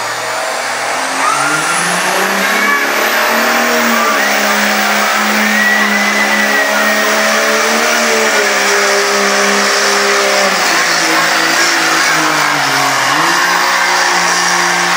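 A diesel pickup truck's engine revving hard under load during a truck pull. The revs climb about a second in and hold high and steady for several seconds, then fall back, dip once more, and climb again near the end.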